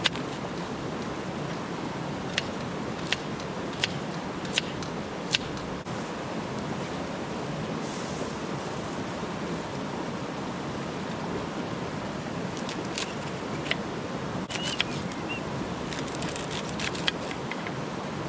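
Wood campfire crackling, with sharp single pops every second or so at first and a quick run of pops near the end, over a steady rushing noise.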